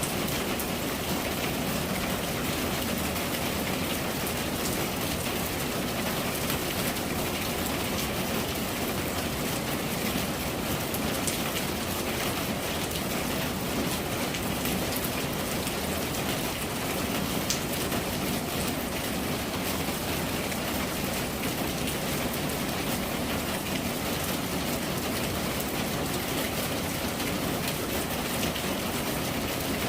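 Steady rain falling: an even hiss with a few separate drop ticks standing out now and then.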